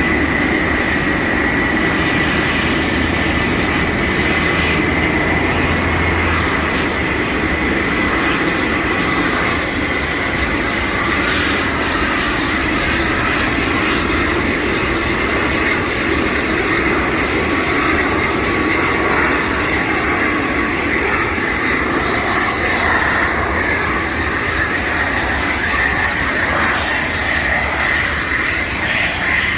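Boeing 747-251B freighter's jet engines running: a loud, steady sound with a thin high whine over it.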